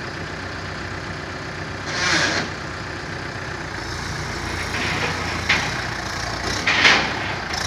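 Swaraj 843 XM tractor's three-cylinder diesel engine running steadily at low speed, with a few short hissing noises about two, five and a half and seven seconds in.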